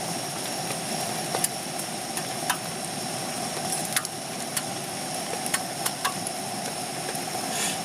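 Portable gas stove burner running with a steady roar, with scattered sharp ticks over it.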